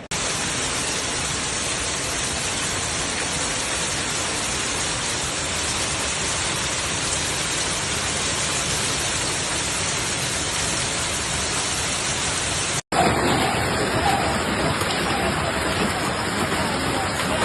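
Heavy storm downpour pelting steadily, a dense even hiss with no separate hits. It cuts out for an instant about thirteen seconds in and carries on.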